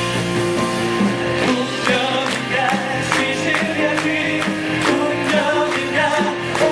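Live stage-musical song played by a band with a steady beat, in a stretch without clear sung words.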